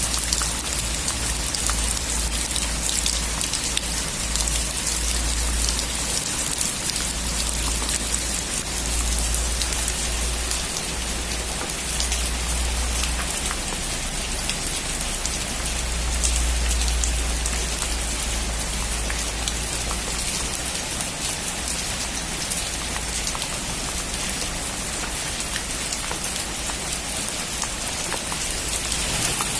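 Steady heavy rain falling, a dense even hiss of many drops with a low rumble underneath that swells and fades.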